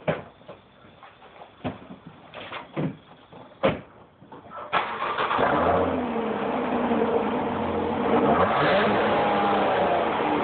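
A few knocks and clicks, then about halfway through the 2008 Dodge Avenger's 3.5-litre V6 starts and runs through its dual exhaust, rising and falling in revs a little.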